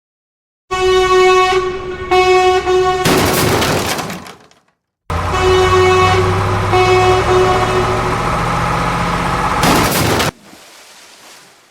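Truck horn honking in two pairs of blasts: one pair about a second in, another about five seconds in over a low engine rumble. Each pair ends in a short rush of noise.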